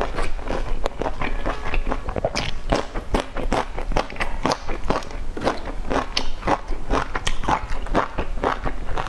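Close-miked mouth sounds of eating boiled dumplings: wet chewing smacks and clicks, several a second, kept up throughout.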